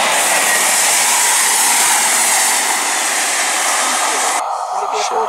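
Two-car diesel multiple unit passing close by: a loud, steady rush of wheel, rail and air noise. About four seconds in it cuts off abruptly to a much quieter scene with faint voices.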